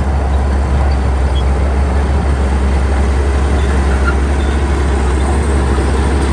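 Heavy diesel engine of a Shantui crawler bulldozer running, a loud, steady low drone.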